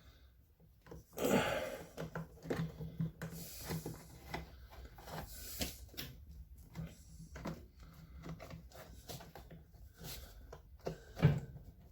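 Hands fitting parts back onto a washing machine during reassembly: a string of light clicks, knocks and short scrapes, with a louder knock near the end.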